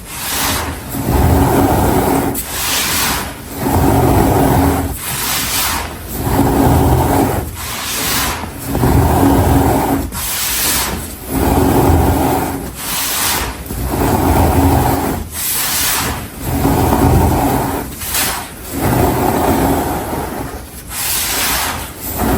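Hands pressing, squeezing and rubbing dry baking soda powder, with a gritty crunch and rustle. It comes in repeated strokes about every two seconds, each opening with a short sharp crackle.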